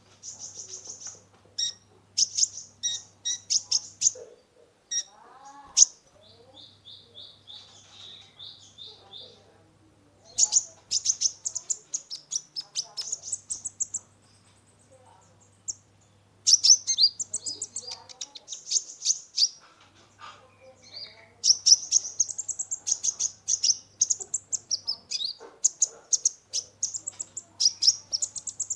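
Kolibri ninja (Van Hasselt's sunbird) singing a fast, very high-pitched song of rapid chirps in bursts with short pauses, with a buzzy trill a few seconds in.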